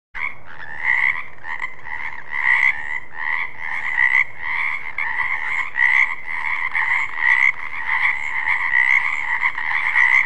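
Frogs calling in a steady chorus, a continuous trill with pulses about twice a second. It starts suddenly and cuts off abruptly at the end.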